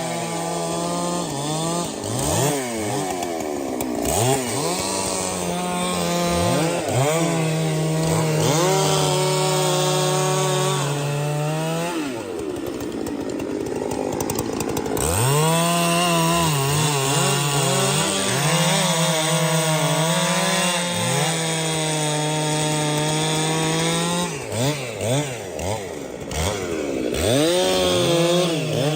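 Two-stroke chainsaw running at high revs, cutting wood. Its pitch repeatedly drops away and climbs back as the throttle is let off and opened again.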